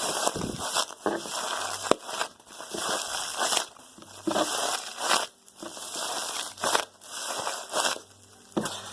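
Homemade squishy (a small plastic trash bag stuffed with cotton) squeezed over and over, the plastic crinkling and crackling with each squeeze about once a second. The crackle sounds like the bag is bursting, but it is not.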